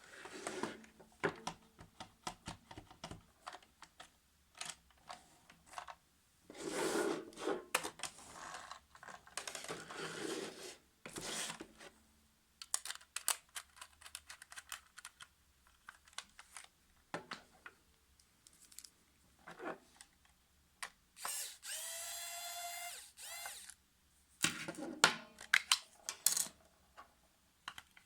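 Scattered clicks, rattles and rustles of plastic parts being handled, and a small electric motor whining for about two seconds, rising slightly in pitch, near the end.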